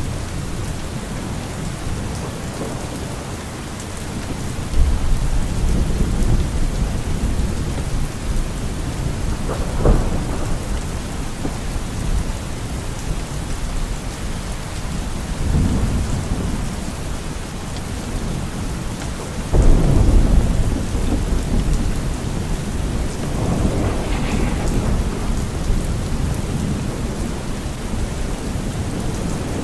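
Steady rain with rolling thunder, several low rumbles swelling and fading; the strongest come about five seconds in and about two-thirds of the way through.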